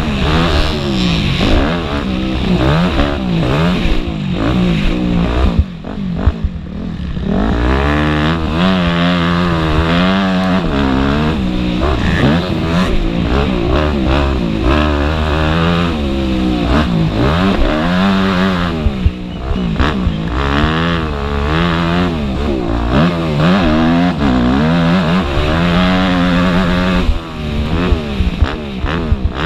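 Motocross dirt-bike engines revving hard, the pitch rising and falling over and over as the throttle is opened and shut, easing briefly about six seconds in.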